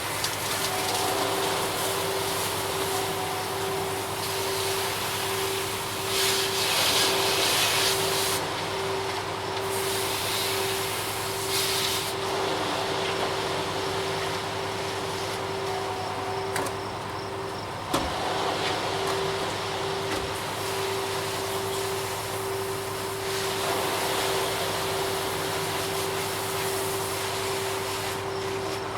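Ready-mix concrete truck running steadily, with a constant whine over a low hum, and a few surges of hissing noise that come and go.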